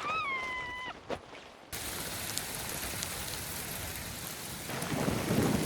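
Heavy rain pouring, starting abruptly a little under two seconds in and running steadily, with a rumble of thunder building near the end. It is preceded by a brief high tone at the very start.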